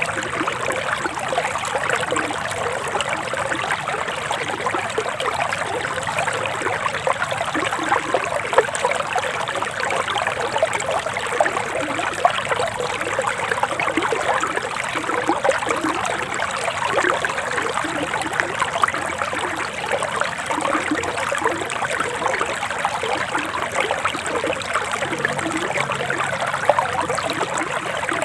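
Forest stream flowing steadily over rocks: a continuous trickling, babbling rush of water.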